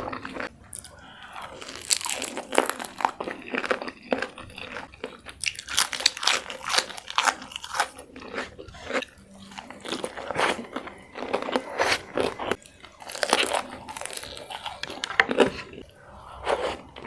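Close-miked crunching bites and chewing of crispy fried chicken, the crackling crunches coming in several bursts.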